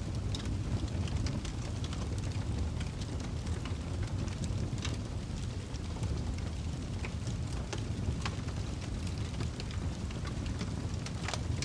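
Wood fire crackling: sharp pops and snaps scattered at irregular intervals over a steady low rumble, with one louder pop near the end.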